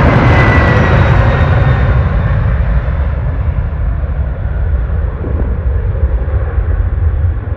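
Jet airliner passing close, its engine noise loud at first and then fading as it moves away, the high whine dying off while a low rumble stays.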